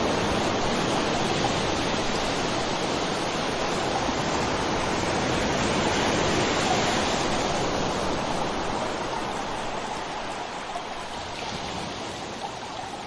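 Steady rush of flowing water, fading slightly toward the end.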